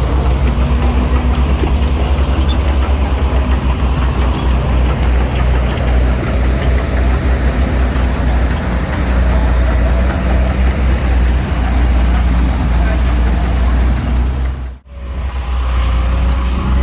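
Heavy diesel earthmoving machinery running with a steady, deep engine drone. The sound drops out briefly near the end, then the engine resumes.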